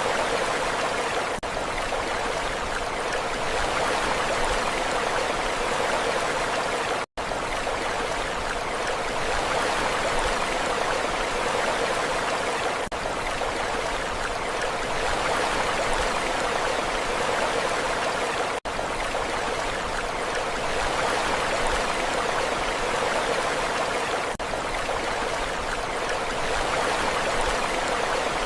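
Sea surf: a steady rushing wash of water that swells and eases only slightly. It cuts out for an instant twice, about 7 and about 18½ seconds in.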